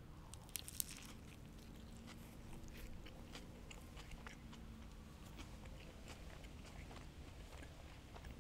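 A person biting and chewing crunchy food, faint and close to the microphone, with two sharper crunches just under a second in, then quieter scattered chewing.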